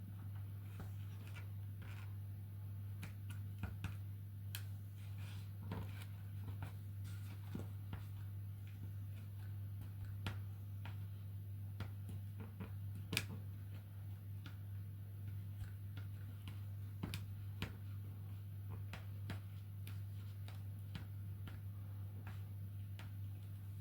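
Scattered light clicks and taps of small 3D-printed plastic parts being handled and fitted, over a steady low hum.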